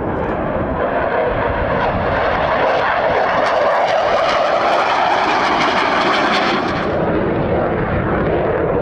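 Dassault Rafale fighter jet engines on takeoff: a loud rushing jet noise that swells to its fullest between about two and seven seconds in, then eases off.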